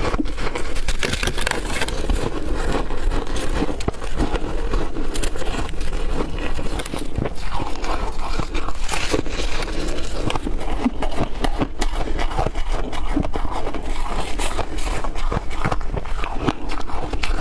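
Chunks of ice being bitten and crunched close to the microphone, a dense, continuous crackling crunch.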